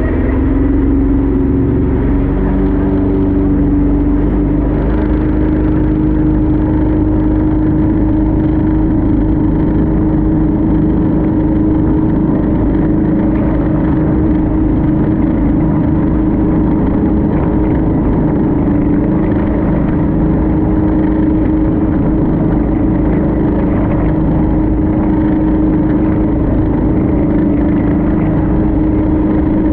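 Speedboat engine running hard and steady at speed, its pitch rising a little a few seconds in.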